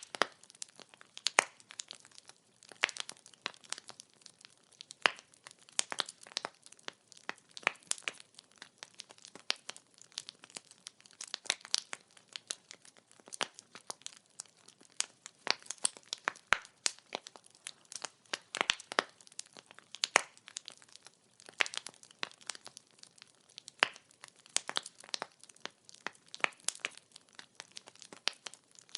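Burning firewood crackling and popping: a dense, irregular run of sharp snaps with no steady roar beneath.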